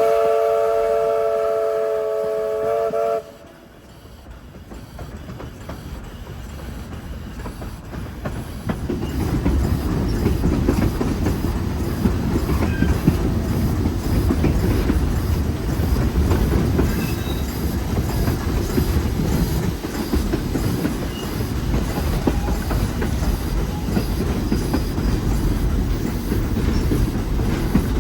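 A train sounds a multi-note chord whistle for about three seconds, which cuts off sharply. The rumble and rail clatter of the moving train then build up over several seconds and run on steadily.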